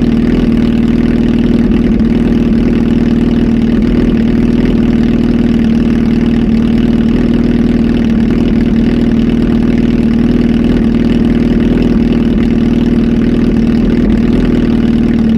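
Kawasaki Z H2 SE motorcycle's supercharged inline-four idling steadily through a full aftermarket exhaust, on a flash tune.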